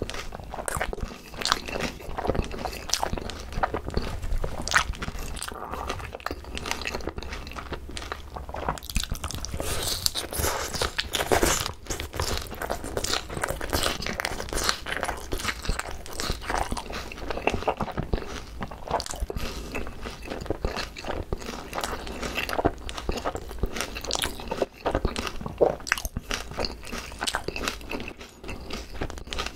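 Close-miked chewing of crispy boneless fried chicken with shredded green onion (pa-dak): a dense, continuous run of crunches and bites.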